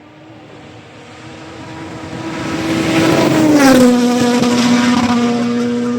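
Rally car approaching flat out and passing close by. Its engine note grows louder, drops sharply in pitch as it goes past about three and a half seconds in, then holds lower as it moves away.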